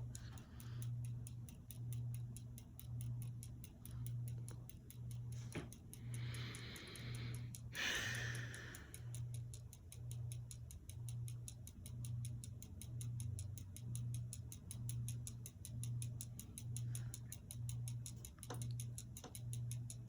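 Hampton Bay Landmark III Plus ceiling fan running on low: a low hum that swells and fades about once a second. A brief hiss of noise comes in about six seconds in and lasts a few seconds.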